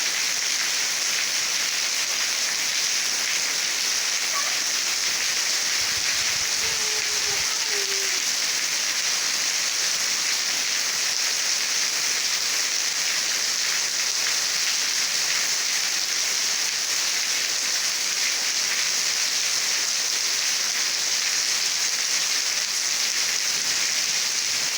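Steady rain falling in a constant, even hiss with no letup.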